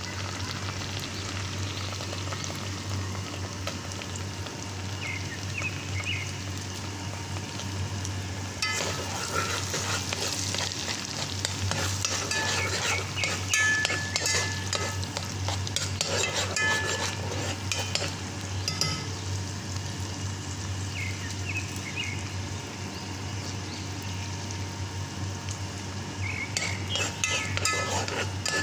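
Tomato paste sizzling steadily as it fries in hot oil in a granite-coated pot. A metal fork scrapes and clinks against the pot as it is stirred, in a long stretch from about a third of the way in and again near the end.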